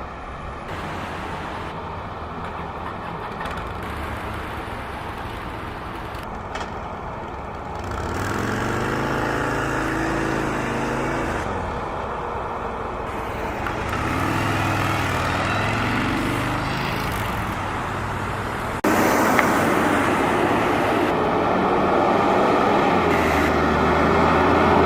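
Road traffic: vehicles passing, their engine notes rising and falling as two go by. About three-quarters of the way in, a louder, steady rushing noise sets in suddenly.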